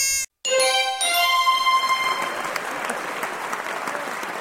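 Quiz sound effects: a held electronic tone that cuts off just after the start, then a bright chime of ringing notes that gives way to applause, slowly fading.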